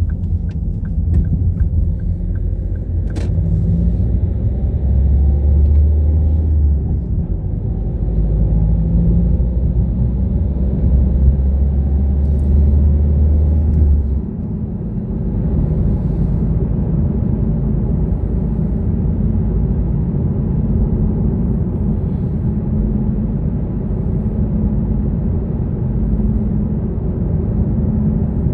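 Car driving: a steady low rumble of engine and road noise, heavier for about the first half and lighter after. There are a few quick ticks right at the start and a single sharp click about three seconds in.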